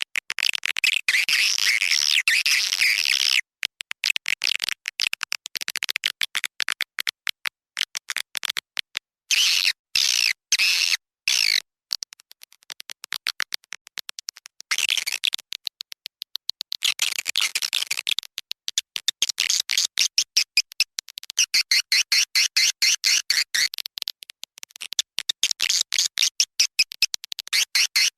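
Swiftlet lure call recording: edible-nest swiftlet twittering, dense rapid high chirps and clicks in stretches broken by short gaps. It is a call sound played in swiftlet houses to attract birds to nest.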